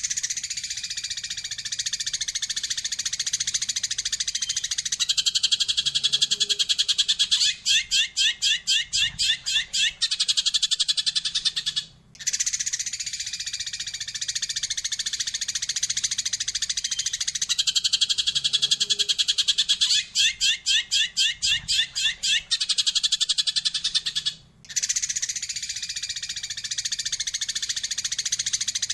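Eurasian tree sparrow song: dense, continuous high chattering that breaks into a rapid roll of about eight sharp, evenly spaced chirps. The same sequence repeats about twelve seconds later, with a brief gap between the two.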